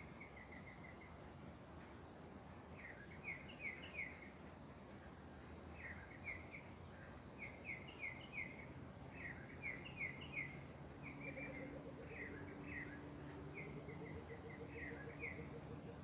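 A bird singing short phrases of three or four clear, quick notes, repeated every second or two, over the steady rush of river water. A faint low hum joins about eleven seconds in.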